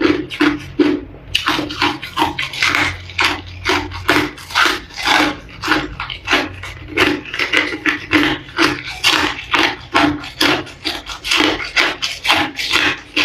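Ice being chewed and crunched between the teeth: a steady run of sharp crunches, about three a second.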